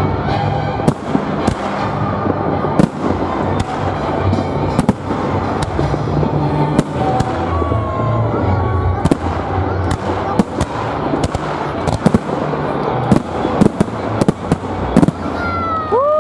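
Aerial fireworks display: many sharp bangs and crackles from bursting shells in quick, irregular succession over a continuous rumble.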